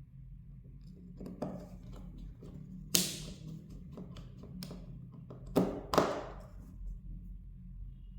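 Hard small objects knocking on a workbench: a light tap, then three sharp clacks, the last two close together, over a faint steady low hum.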